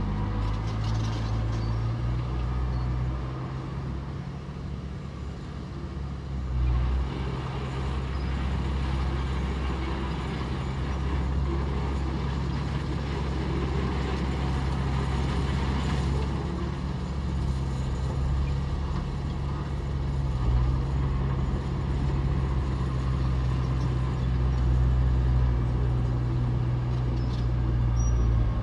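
Heavy diesel earthmoving machinery running, a steady low engine drone whose loudness swells and eases a little.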